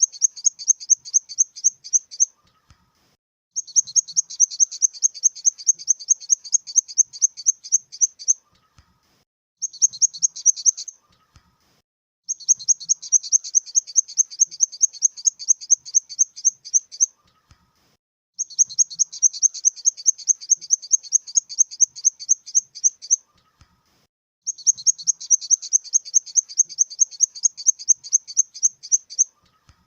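Grasshopper stridulating: high, rapid chirping pulses, about five a second, in trains several seconds long with breaks of about a second between them.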